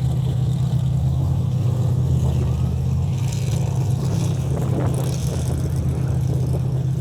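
A vehicle engine running at a steady speed: a constant low drone with no revving.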